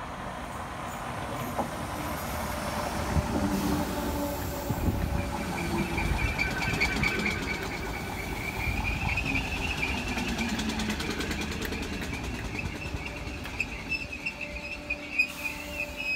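Merseyrail Class 508 electric multiple unit pulling into the platform and slowing to a stop, with rumbling wheels and a steady high-pitched squeal through the second half as it brakes. A few sharp clacks come near the end.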